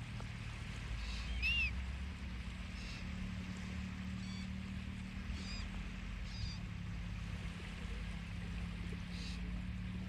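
Small birds giving short, high chirps every second or two, the clearest an arched note about a second and a half in, over a steady low rumble.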